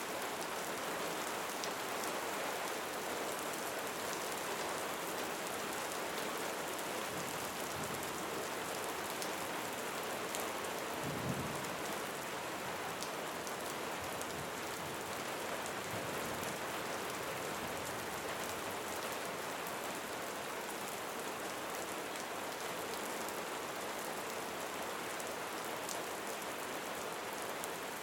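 Steady, dense rainfall pattering on surfaces, with fine drop impacts throughout. A brief low thud stands out a little under halfway through.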